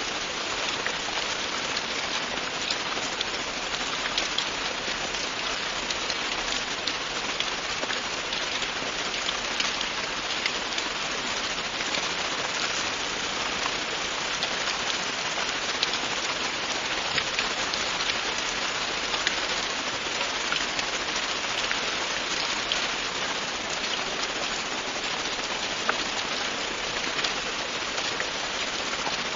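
Steady rain falling on a surface, an even hiss full of many small scattered drop ticks.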